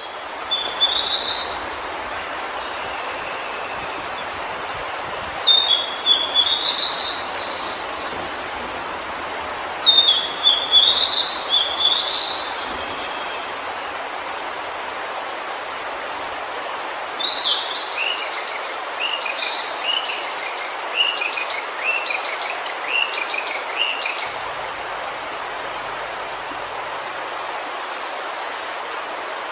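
Songbirds singing in short warbling phrases, then a run of repeated short notes in the second half, over a steady rushing background noise.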